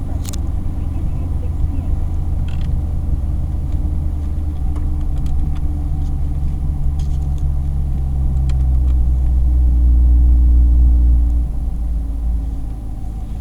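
Chevrolet C8 Corvette's V8 idling on a cold start with a steady low rumble. It grows louder for a few seconds, then eases back about eleven seconds in.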